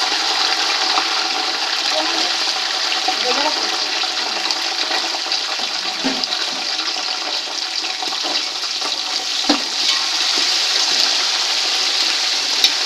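Sliced onions frying in hot oil in a large aluminium pot: a steady, loud sizzle, with a few clinks of the metal slotted ladle against the pot.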